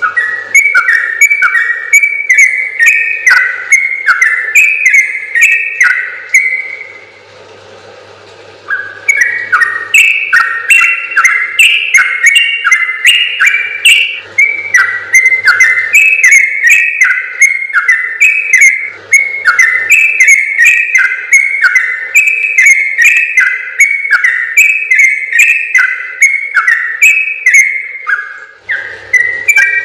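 Trucukan (yellow-vented bulbul) singing long, rapid runs of short, bubbling whistled notes, many per second. The song breaks off for about two seconds near a quarter of the way in, then carries on.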